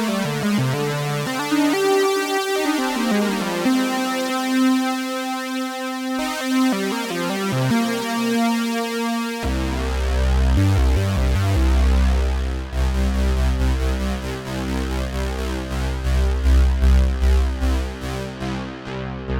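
Behringer Poly D analog synthesizer playing a line of sustained pitched notes. About halfway through a heavy deep bass comes in with a pulsing rhythm, and the tone darkens as the filter closes, opening and shutting in rhythmic sweeps near the end.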